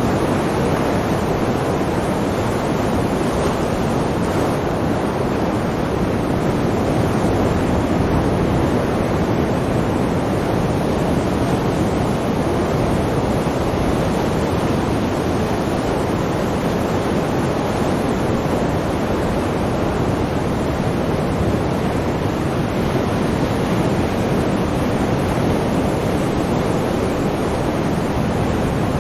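Sea waves and surf in a steady, continuous wash, with no distinct swells or breaks in the level.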